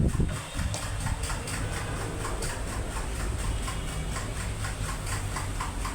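Small electric clip fan running with a steady low hum and a regular light ticking, about four ticks a second.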